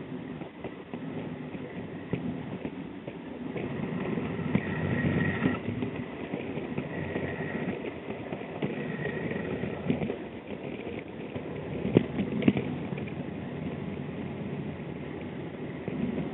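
G-scale model train running along its track, a steady rattling rumble of wheels on rail, with two sharp clicks about twelve seconds in.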